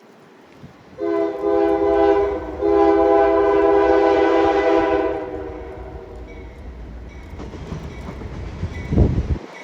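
Diesel freight locomotive's multi-chime air horn sounding two long blasts for a grade crossing, the second fading out about halfway through. The locomotive's low engine rumble builds as it approaches, with a heavy low thump near the end.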